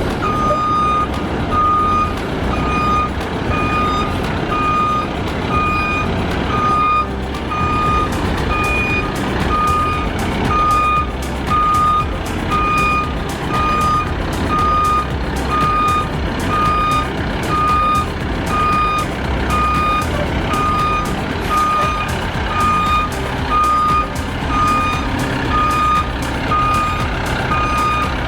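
A truck backing up: its backup alarm beeps steadily at about one beep a second over the low rumble of the running engine.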